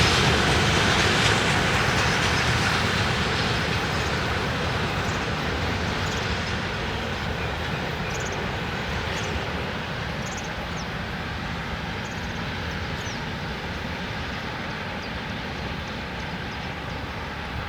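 Freight train rolling along the rails, its noise fading steadily as it draws away.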